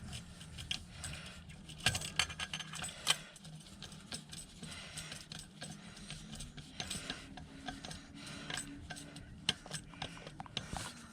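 Irregular light metallic clicks and clinks of hand tools and a small hose clamp being worked and tightened on a scooter exhaust.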